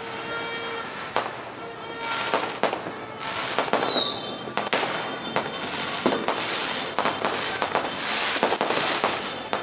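Fireworks going off: many sharp bangs at irregular intervals over continuous crackling, with a brief falling whistle about four seconds in.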